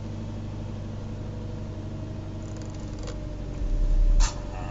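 Car engine idling steadily, heard from inside the cabin. A deep low rumble swells for under a second near the end and stops with a short click.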